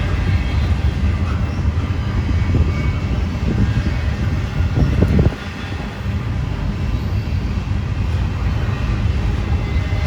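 Freight train rolling past: a loud, steady low rumble, which drops off suddenly about five seconds in.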